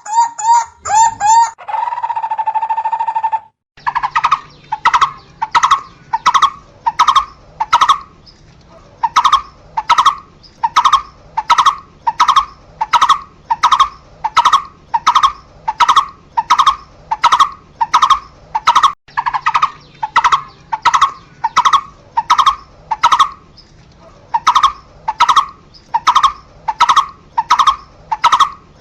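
Barbet calling. A quick run of notes and a short held tone open the clip, and after a brief break comes a long, evenly paced series of single notes, about two a second.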